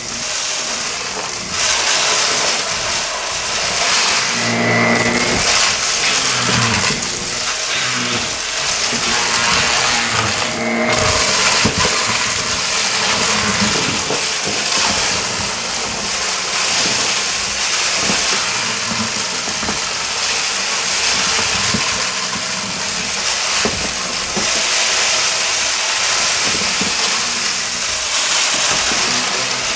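Shark vacuum cleaner running on carpet: a steady, loud rushing hiss of motor and airflow, with brief shifts in tone about five and eleven seconds in.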